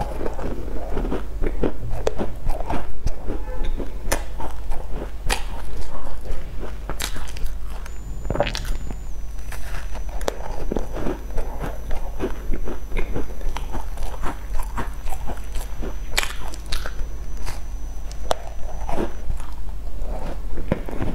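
Close-miked biting and chewing of a sesame-crusted pastry with a creamy filling: irregular crisp crunches all through, over a steady low hum.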